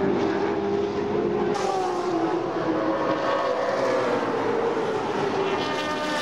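Racing car engines running hard on the circuit, their note sagging in pitch and then climbing again near the end as the cars brake and accelerate.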